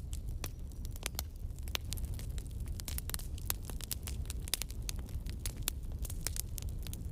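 Wood logs burning in a fireplace, crackling with frequent sharp, irregular pops over a low, steady rumble of the flames.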